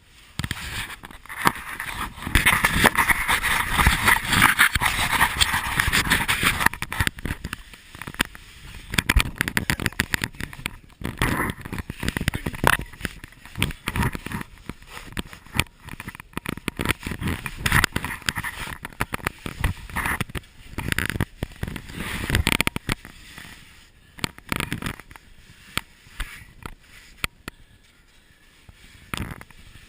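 Rough scraping, rustling and crackling of clothing and gear rubbing against cave rock as someone moves through a passage. Dense and continuous for the first several seconds, then irregular scrapes and sharp knocks that thin out near the end.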